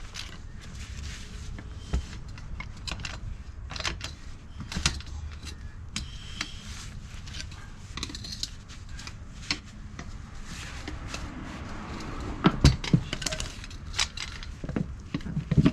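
Metal hand tools and parts clinking and tapping at irregular intervals during hands-on scooter repair work, with a few louder knocks about twelve and a half seconds in and again near the end.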